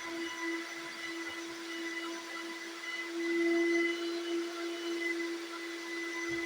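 Vacuum cleaner motor running steadily with a high whine over a rushing hiss, briefly louder about halfway through.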